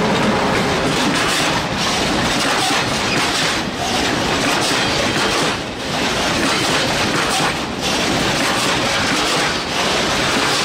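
Train wheels rolling along the rails, a loud steady rumble with brief dips about every two seconds.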